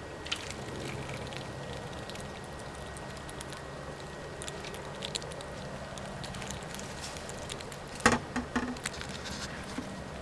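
Steady rushing background noise with scattered light clicks and taps, and a sharp run of three knocks about eight seconds in.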